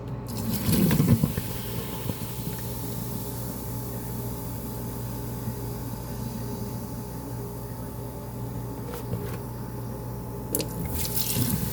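White vinegar poured down a sink drain onto baking soda, splashing loudest about a second in, then the baking soda and vinegar fizzing steadily in the garbage disposal. A few sharp clicks come near the end.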